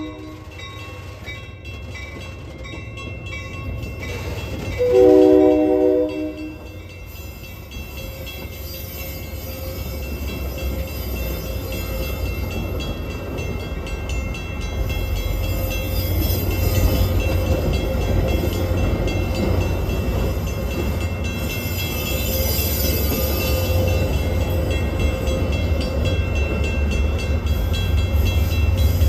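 Train horn sounding one short blast of several notes at once about five seconds in, then a passing train's low rumble growing steadily louder as it draws near.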